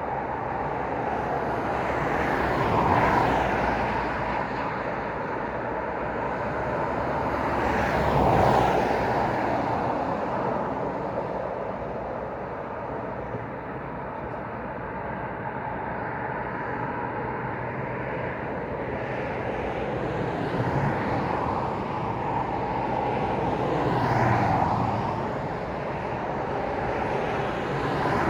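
Road traffic: vehicles passing one after another, tyre and engine noise swelling and fading, with the loudest passes about three seconds in, about eight seconds in, and near the end.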